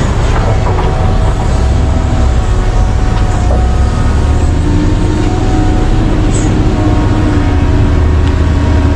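Large mining excavator's diesel engine running steadily under load, a deep rumble with a faint whine above it that shifts slightly in pitch.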